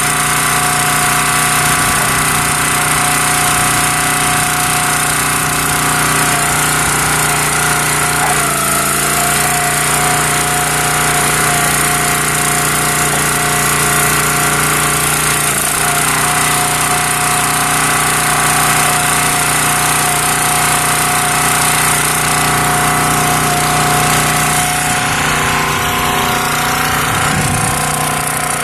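Small gas engine of a County Line hydraulic log splitter running steadily.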